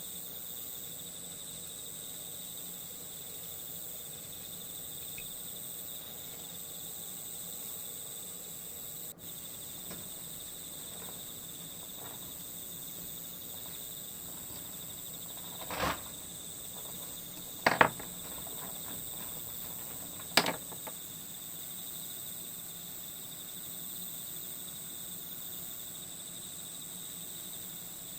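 Crickets chirring steadily as a nature-sound ambience. A little past the middle come three sharp taps or knocks, about two seconds apart.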